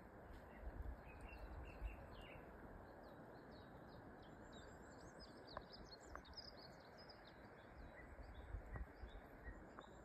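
Faint songbirds chirping, many short high notes through the middle, over a quiet outdoor hush with a faint low rumble on the microphone.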